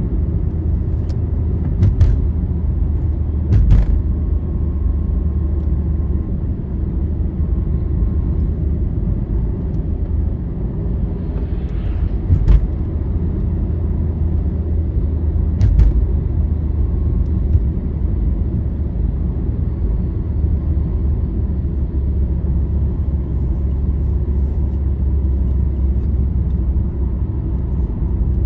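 Steady low rumble of a road vehicle travelling along a highway, heard from inside the vehicle: engine and tyre drone, broken by a few short knocks or rattles over bumps.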